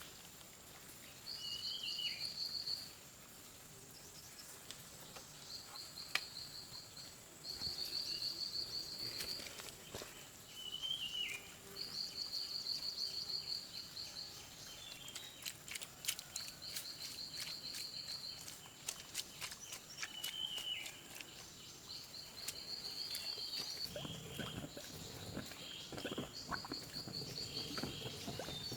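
Birds calling outdoors: a short buzzy trill repeated every few seconds, with an occasional sliding note that drops at the end, over faint scattered knocks and a brief low rumble near the end.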